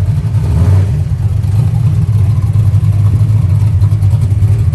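Chevrolet Camaro's engine rumbling with a loud, choppy, deep exhaust note as the car rolls slowly by, a sound its watcher calls nasty.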